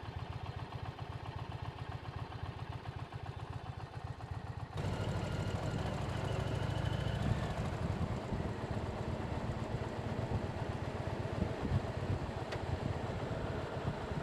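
Motorcycle engine idling with a steady low pulse. About five seconds in, the sound jumps abruptly louder, with a rougher rumble and a noisy rush that carries on.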